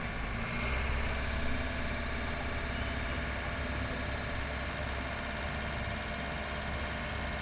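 Crane engine running steadily with an even, low hum.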